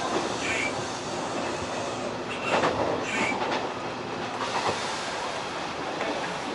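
Hanshin 1000 series electric train running on the line, heard from inside the front car: a steady rumble of wheels on rail. A short burst of wheel clatter comes about two and a half seconds in, and brief wheel squeals sound near the start and about three seconds in.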